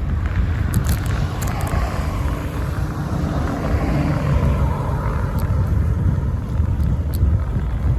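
Wind buffeting a bike-mounted phone's microphone as a low steady rumble, with road traffic noise swelling and fading in the middle, like a car passing. A few faint ticks sound over it.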